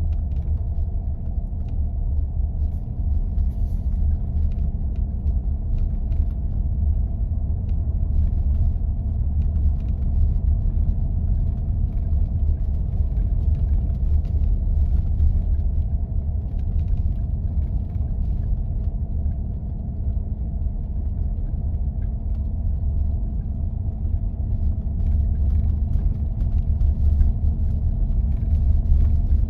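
A 4x4 driving on snow-covered back roads: a steady deep rumble of engine and tyres with a constant hum, and faint scattered ticks.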